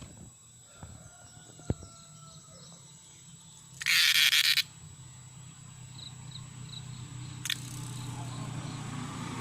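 A cicada giving a short, loud, rasping buzz of under a second, about four seconds in. Around it are a few faint chirps, a couple of clicks, and a low rumble that builds near the end.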